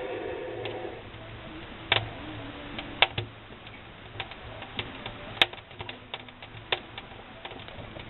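Wood fire crackling in a brazier fireplace: irregular sharp pops and clicks, a few of them louder, over a faint low hum.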